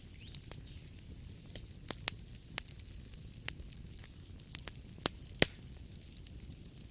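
Wood fire burning in a fireplace: irregular sharp crackles and pops over a low steady rumble, the loudest pop about five and a half seconds in.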